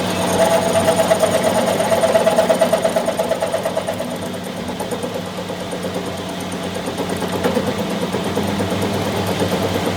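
A machine running steadily with a fast, even pulsing hum, a little louder in the first few seconds.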